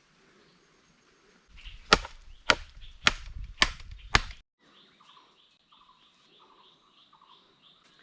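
Five sharp impacts in a steady rhythm, about half a second apart, a couple of seconds in.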